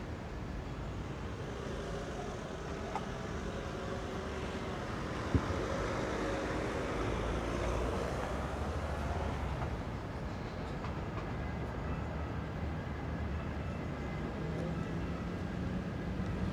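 Street ambience dominated by the low, steady rumble of a large vehicle running by, swelling a little in the middle, with one sharp click about five seconds in.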